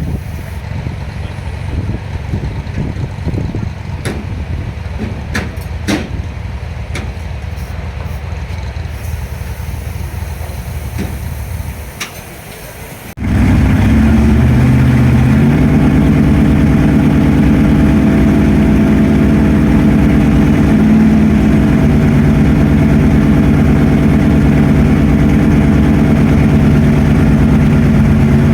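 V8 stock car engine running at a steady idle, coming in abruptly about halfway through. Before it, rumbling wind-type noise with a few sharp clicks.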